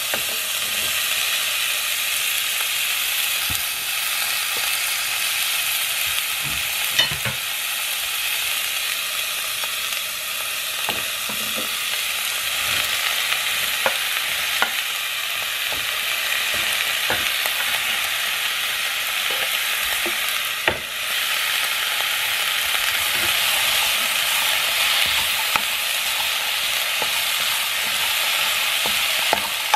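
Chicken breast, sliced onion and red bell pepper sizzling steadily in a frying pan. A wooden spatula stirs them, knocking and scraping against the pan now and then.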